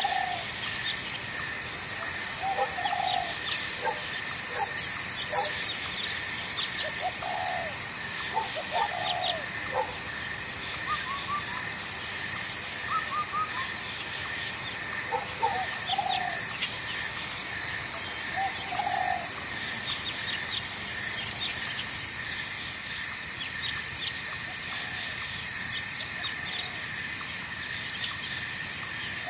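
Night-time forest ambience: insects chirring steadily at several high pitches, one band pulsing fast, while a bird gives short low calls every few seconds.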